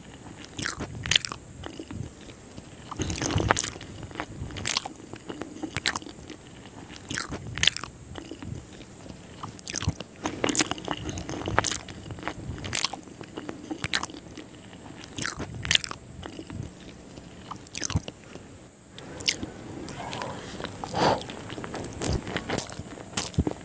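Close-miked biting and chewing of a sauced Korean fried chicken drumstick: irregular sharp crunches and mouth noises, a few a second, over a steady faint high hiss.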